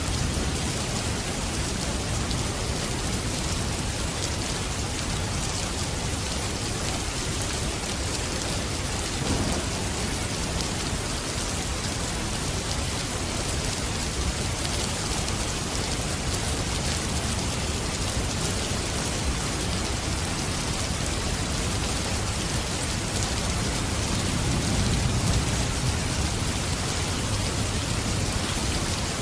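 Steady rain falling and pattering on surfaces. A low rumble of thunder swells in the bass near the end.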